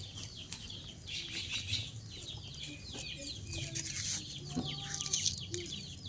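Chickens clucking, with many quick, falling chirps throughout.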